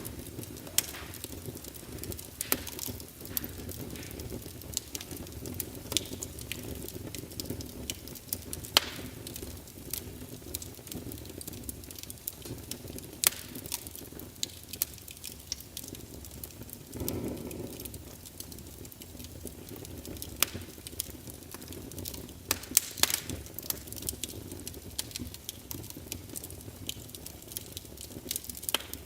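Wood logs burning in a fireplace, crackling with irregular sharp pops over a low steady rumble of flame. A brief louder hiss comes a little past halfway.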